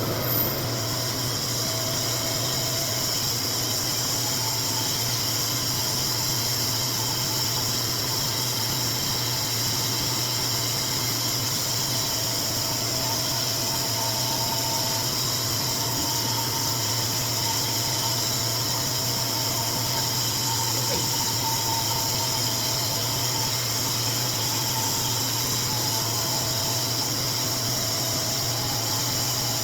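RevAir reverse-air hair dryer running steadily: its suction blower makes a constant low hum under an even rush of air.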